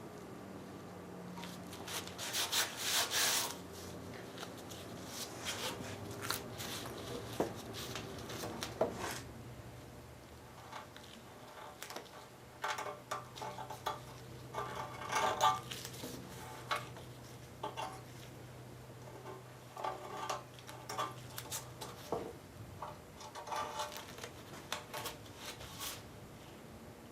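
Razor blade scraping and trimming half-cured body filler on a metal tractor fender in short, irregular strokes. The filler is still at its soft, rubbery stage.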